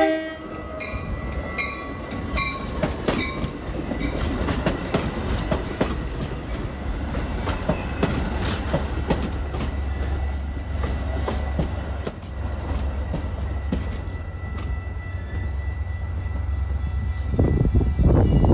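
Metra bilevel commuter train pulling in alongside the platform and slowing to a stop: a steady low rumble with wheels clicking over the rails and a few brief high squeals, the tail of its horn cutting off at the very start.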